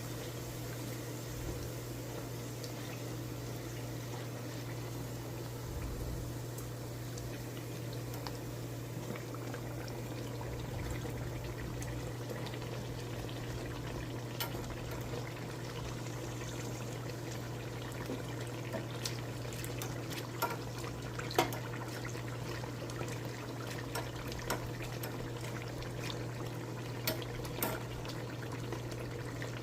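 Beignet dough deep-frying in hot oil: a steady sizzle, with scattered sharp pops and crackles from about halfway through. A low steady hum runs underneath.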